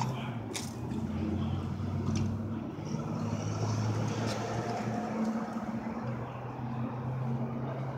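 A motor vehicle engine running: a steady low hum that steps to a slightly different pitch a few times, with a few light clicks over it.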